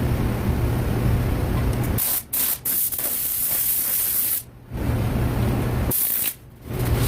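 Loud hissing spray of air, lasting about two and a half seconds from about two seconds in and coming again briefly near the end, over a steady low machine hum that takes up the rest.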